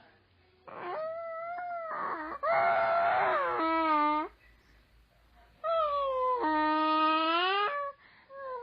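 A run of long wailing vocal calls, each about a second long, with the pitch held and then bending. One call in the middle is harsh and rasping. The calls come in two groups with a quiet pause between them.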